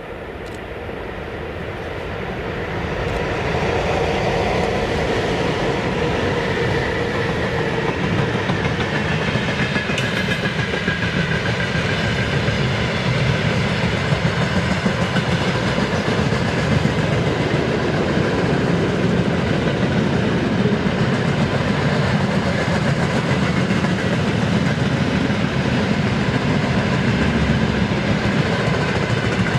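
A freight train behind a VL10K electric locomotive rumbling past close by, with wheels clattering over the rail joints. It grows louder over the first few seconds, then holds steady as the wagons roll by.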